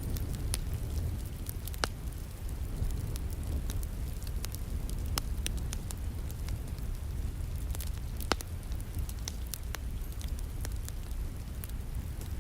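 Wood fire crackling, with scattered sharp pops, two of them louder about 2 seconds and 8 seconds in, over a steady low rumble and the soft hiss of falling rain.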